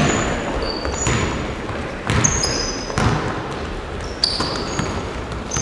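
Basketballs bouncing on a hard gym floor, about one loud bounce a second with a ringing echo after each. Short high squeaks, likely basketball shoes on the court, come in between.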